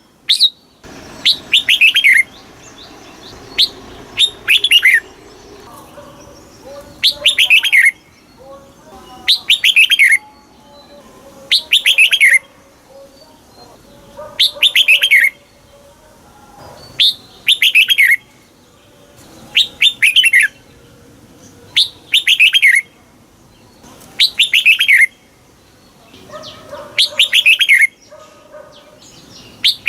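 Red-whiskered bulbul singing its short, loud phrase over and over, about once every two seconds. Each phrase is a quick run of whistled notes falling in pitch.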